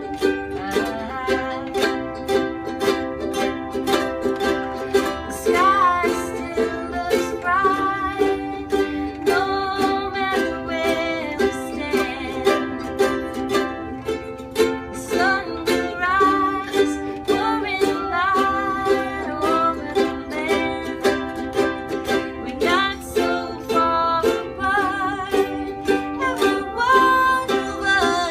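Several ukuleles strummed together in a steady rhythm, with a voice singing a slow melody over them.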